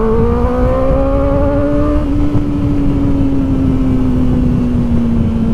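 Kawasaki Ninja ZX-4RR's 399 cc inline-four engine under way, pitch rising as it accelerates for about two seconds, then holding and easing slightly as it settles into a steady cruise.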